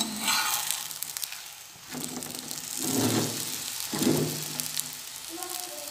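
Oil sizzling under a stuffed aloo gobi paratha as it fries on a tawa.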